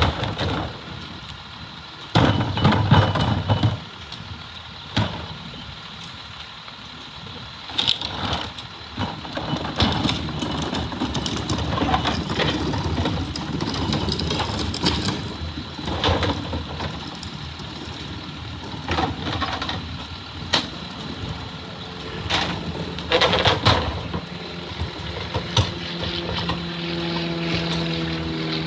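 Garbage truck working at the curb: its engine runs under a series of loud clanks and bangs, the heaviest about two to four seconds in and again near the end. In the last few seconds the truck's engine note comes up strongly and holds steady.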